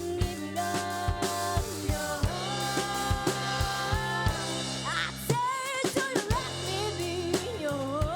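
Live band playing a slow soul ballad: drum kit strokes at a steady beat under held chords, with a wavering sung melody in the second half.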